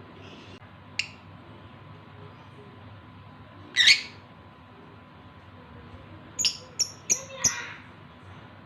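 Male lovebird in breeding condition giving short, sharp, high-pitched calls: one about a second in, a louder one near the middle, and a quick run of four near the end. These are the calls of a male in breeding condition calling for a female.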